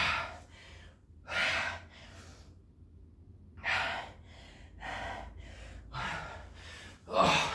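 A man breathing hard after an all-out burpee workout: about six loud, gasping breaths, with a short pause partway through.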